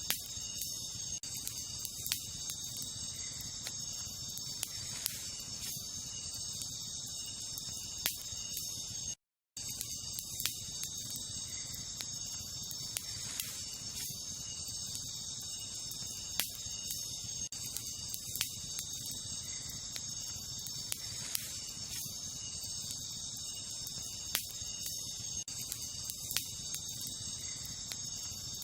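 Wood campfire crackling, with sharp pops at irregular intervals over a steady, high chorus of night insects such as crickets. The sound cuts out completely for a moment about nine seconds in.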